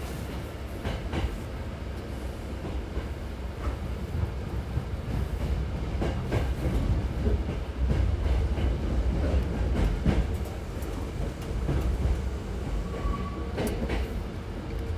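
Hankyu 6300 series electric train running, heard from inside the car: a steady low rumble with scattered wheel clicks over the rail joints. A faint steady whine comes in near the end.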